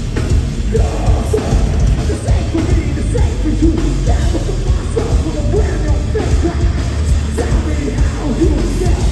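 Metal band playing live, loud, with heavy drums and distorted guitars under a yelled vocal.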